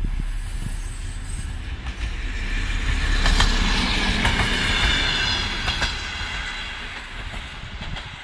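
AČ2 diesel railcar passing close by: the sound builds to a peak a few seconds in and then fades, with a few sharp clacks of the wheels over rail joints and a high wheel squeal as it goes past.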